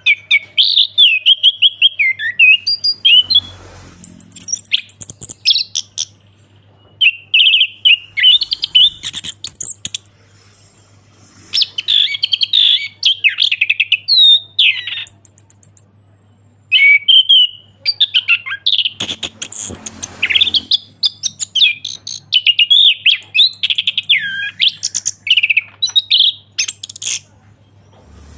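Orange-headed thrush singing loud, varied phrases of whistled notes and fast high trills, in bursts of a few seconds with short pauses between them. A faint steady low hum runs underneath.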